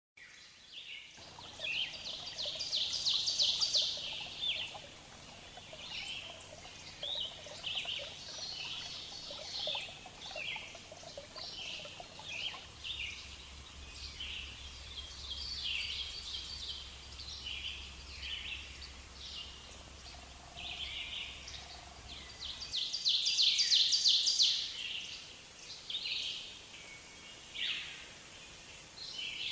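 Several birds chirping and calling, with a few rapid trills, over a faint low hum.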